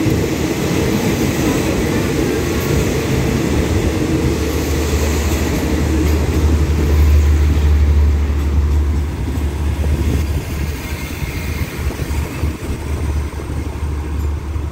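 Passenger train coaches rolling past as the train pulls out of the station, a steady low rumble with wheel noise that is loudest around the middle and eases off near the end.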